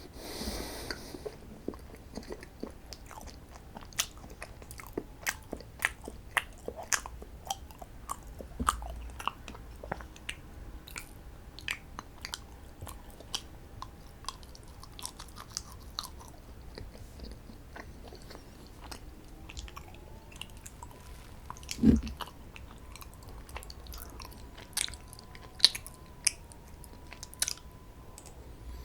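A person chewing and biting into strawberry desserts, with many small irregular clicks and crunches and one louder low thump past the middle.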